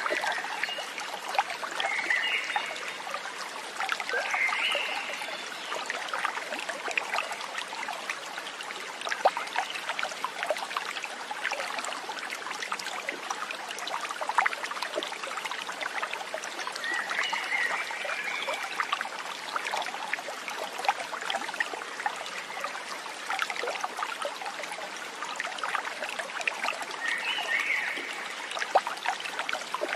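Stream water trickling and babbling steadily over stones, with a few short animal calls on top, four in all.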